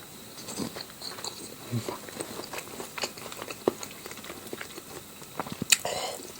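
Close-up mouth sounds of someone eating: irregular chewing with small wet smacks and clicks, and one sharper click near the end.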